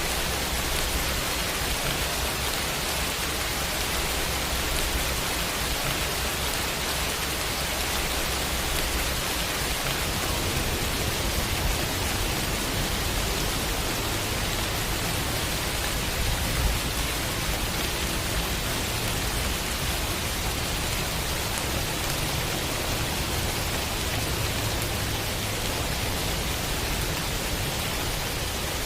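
Heavy rain falling steadily, an even, continuous hiss, with a low rumble underneath.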